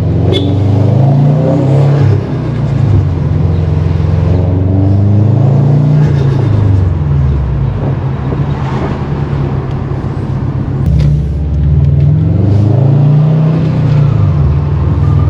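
Turbocharged flat-four engine of a tuned 2018 Subaru WRX STI running on E85, pulling under hard acceleration. The engine note climbs in pitch, drops off at a gear change or lift, and climbs again several times, with a short sharp crack near the start and another partway through.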